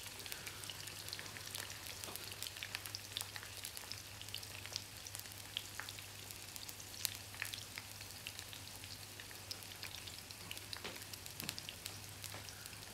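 Boneless chicken pieces frying in hot oil with green onions and capsicum: a steady sizzle with many small crackles of spitting oil over a low steady hum.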